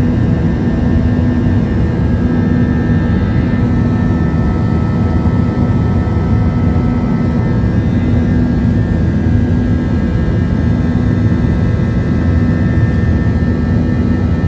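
Airbus A321-231's IAE V2500 turbofan engines heard from inside the passenger cabin: a steady loud rumble with several constant whining tones on top.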